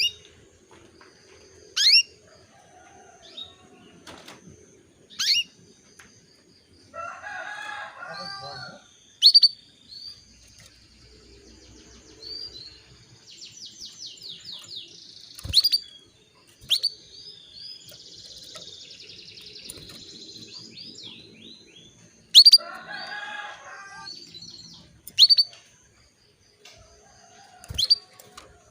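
Female canary calling: loud, sharp chirps that drop steeply in pitch, repeated every few seconds, with softer rapid trills and chatter in between. This is the call of a hen in breeding condition, used to stir male canaries to sing.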